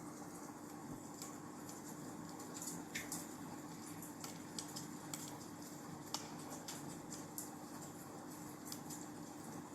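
Wood fire in a fireplace crackling, with irregular small pops and snaps, a couple of them sharper about three and six seconds in.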